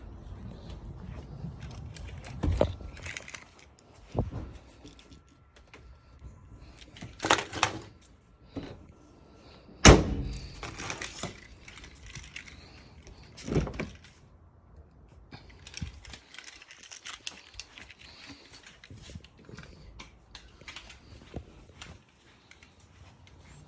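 A string of knocks, clicks and rattles from objects being handled, with one sharp bang about ten seconds in.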